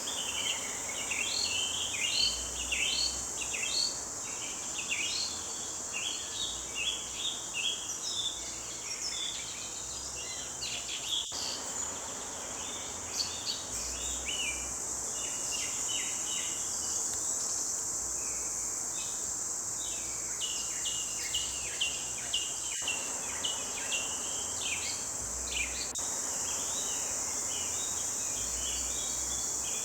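Several songbirds chirping and singing in quick short notes over a steady, high-pitched insect drone. The birdsong is busy at first, thins out midway, then picks up again near the end.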